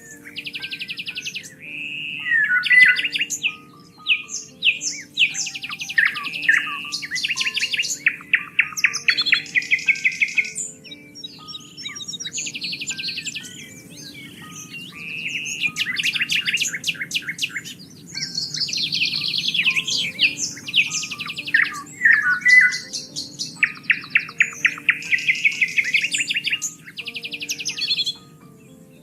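Several songbirds singing and chirping, with rapid repeated trills and short whistled phrases, some busier stretches and brief lulls. Soft background music with held low notes sits beneath.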